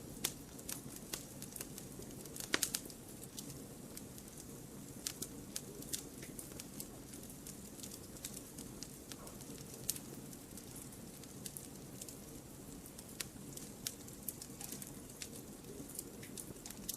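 Wood fire burning, crackling with irregular sharp pops over a steady low hiss; a cluster of the loudest pops comes about two and a half seconds in.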